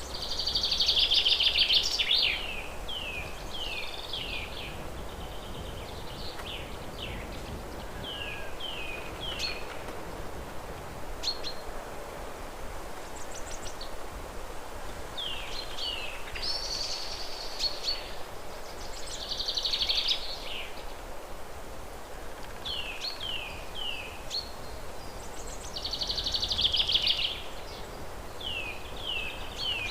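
A songbird singing a repeated song: a loud, rapid trill followed by a string of short downward-slurred whistled notes, the phrase coming back several times, over a steady outdoor hiss.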